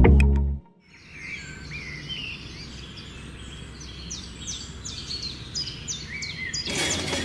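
Small birds chirping in a run of short, quick calls. Near the end a steady gush of water starts as the miniature hand pump is worked.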